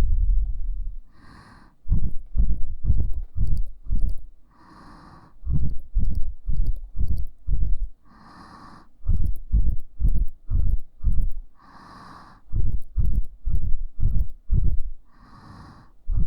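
Rhythmic muffled thumps on a KU100 dummy-head microphone's ears, about three a second, with a breathy puff of air every three to four seconds.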